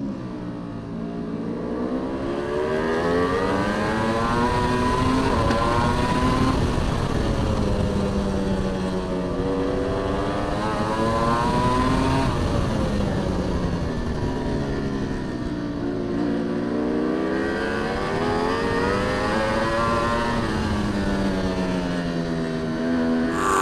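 Racing superbike engine heard from the onboard camera, its pitch rising hard as it accelerates and falling away as it slows, about four times over. The sound changes abruptly just before the end.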